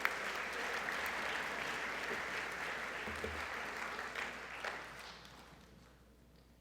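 Audience applauding in a large gym, steady for several seconds, then fading out over the last two seconds.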